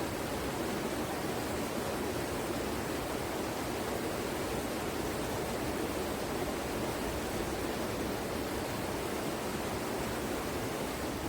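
Waterfall rushing steadily: a constant, unchanging noise of falling water.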